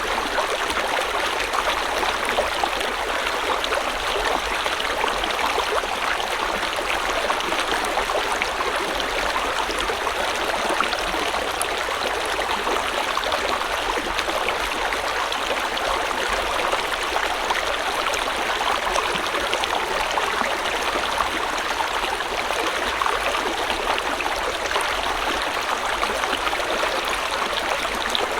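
River water flowing and splashing over rocks: a steady, even rush with no changes.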